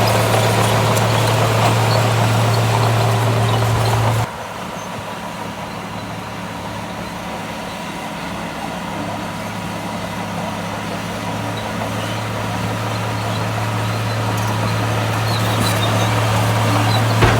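Diesel engine of heavy earthmoving machinery running steadily with a low hum. About four seconds in the sound drops off suddenly, then slowly grows louder again.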